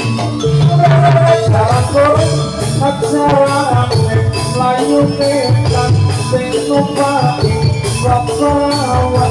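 Live campursari band music: low hand-drum strokes and a steady ticking beat under a gliding melody line.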